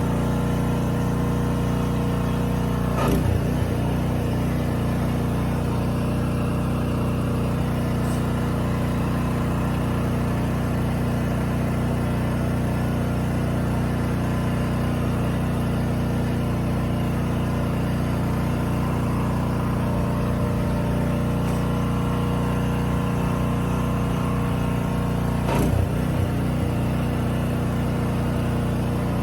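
A motor running at a steady hum without change in pitch, with two brief knocks, about three seconds in and near the end.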